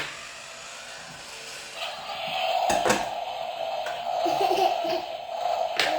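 A battery-powered toy car, working again on fresh batteries, gives off a steady single-pitched electric hum that starts about two seconds in. A few sharp clicks fall at the start, near the middle and near the end.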